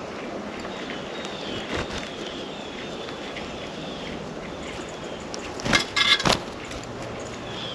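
Outdoor background hum with faint, thin bird chirps falling in pitch in the first few seconds. About six seconds in there is a short, loud clatter of several knocks.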